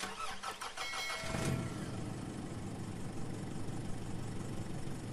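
Car engine being started: about a second of starter cranking with a short whine, then the engine catches and settles into a steady idle.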